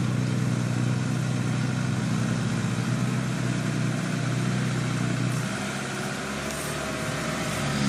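Dump truck engine running steadily. About five and a half seconds in, its note shifts lower and it gets a little quieter.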